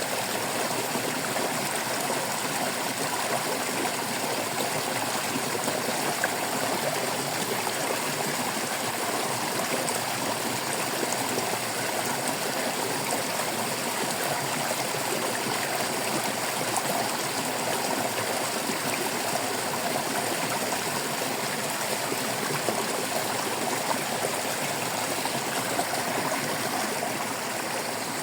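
Water flowing and burbling steadily in a stream.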